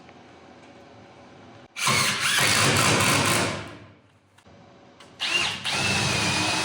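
Power drill running in two bursts of about two seconds each, boring pilot holes into wood for timber screws. The second burst carries a steady high whine.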